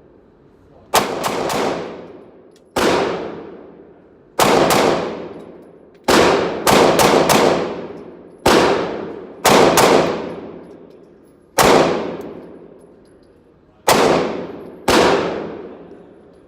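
9mm pistol fired about sixteen times at an uneven pace, some shots in quick doubles and triples, each shot followed by a long ringing echo that fades over a second or so.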